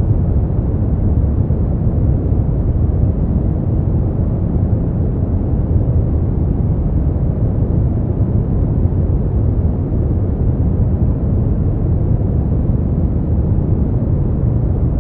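Continuous synthetic sleep noise, a steady deep rumbling hiss with its weight in the low pitches and no bright high hiss, so it sounds darker than true white noise, closer to brown noise. It does not change at all.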